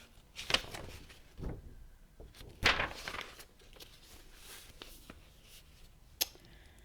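A few soft, scattered clicks and rustles of handling in a quiet small room, with one sharp click near the end.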